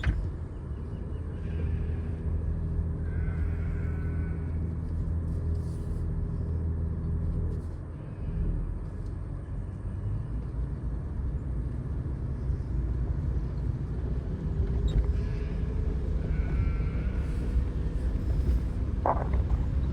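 Pickup truck engine running steadily at low speed, easing off briefly about eight seconds in. Sheep bleat faintly a couple of times.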